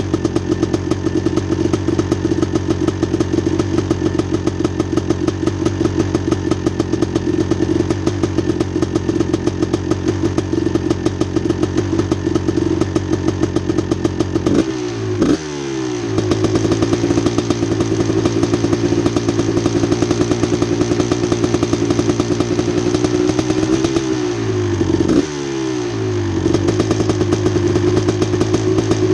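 1989 Honda CR250's two-stroke single-cylinder engine idling steadily while warming up, with two brief throttle blips: one about halfway through and another near the end, each settling quickly back to idle.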